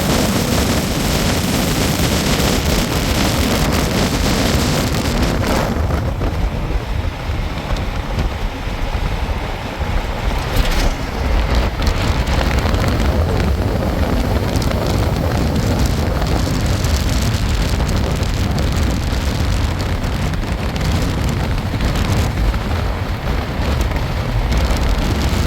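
Loud, steady rumbling and hissing noise, like wind buffeting the microphone; the high hiss eases about five seconds in, while the low rumble goes on.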